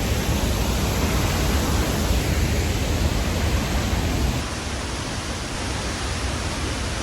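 Haew Suwat waterfall pouring into its pool close by, a loud steady rush of falling water with a deep rumble underneath that eases slightly about four seconds in.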